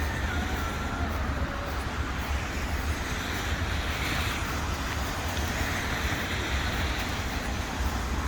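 City street ambience: passing traffic with a swell of one vehicle going by in the middle, and wind rumbling on the microphone.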